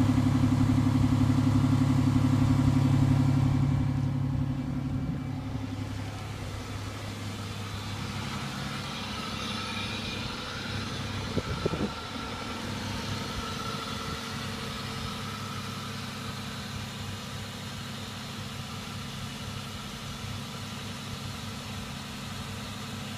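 2004 Chevrolet Monte Carlo SS's 3800 Series II V6 idling steadily on a cold start. It is loud close to the tailpipe at first and turns fainter after about four seconds, heard from the front of the car. A few brief knocks come near the middle.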